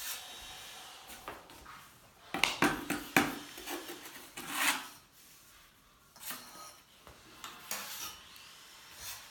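Hand work on Oya stone cladding: scraping and rubbing with a cluster of sharp knocks two to three seconds in, then scattered single knocks.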